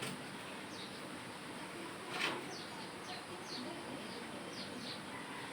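Small birds chirping, a string of short high notes that each drop in pitch, over a steady outdoor background, with one brief louder scrape-like sound about two seconds in.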